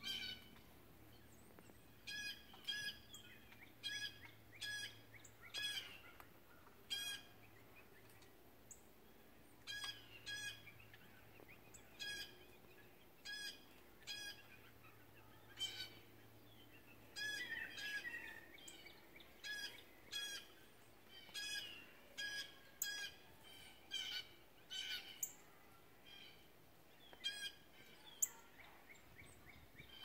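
A bird calling over and over: short, harsh calls, often in quick pairs, with a couple of brief pauses, over a faint steady low hum.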